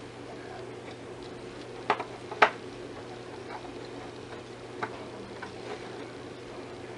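A few sharp clicks and taps of small hardware (a nut and bolt) against plastic parts while they are worked into place by hand. Two loud clicks come about two seconds in, the second the loudest, with a lighter one near five seconds and a few faint ticks, over a steady low hum.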